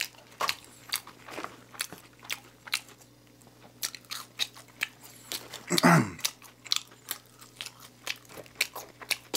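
Close-miked chewing of McDonald's French fries and a spicy chicken snack wrap: a steady run of sharp, wet mouth clicks and soft crunches. A brief falling vocal 'mm' sounds about six seconds in.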